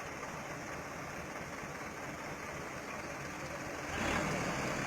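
Truck engine idling steadily, then growing louder about four seconds in.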